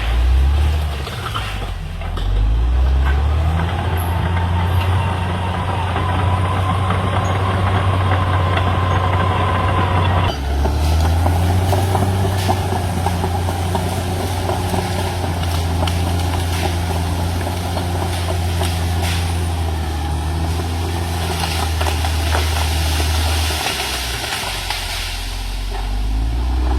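CAT D6R XL bulldozer's diesel engine running under changing load, its note dipping and recovering a few times, with an abrupt change about ten seconds in.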